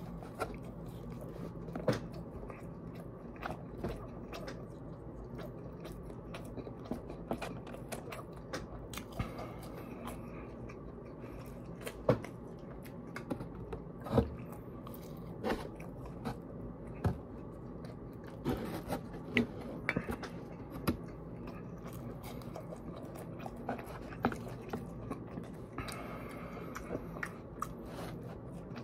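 Close-up chewing and mouth sounds of a person eating a fried Monte Cristo sandwich and French fries. Scattered sharp clicks and smacks sound over a steady low background hum.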